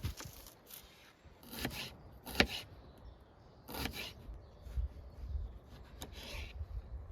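Rough scraping strokes, about six, irregularly spaced, the loudest about two and a half seconds in.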